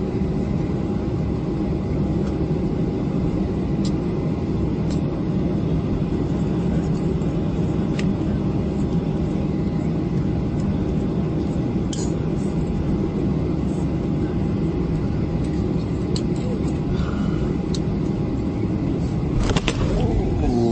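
Airliner cabin noise while taxiing: the steady low rumble of the engines with a thin, steady whine that stops near the end, and a few brief clicks near the end.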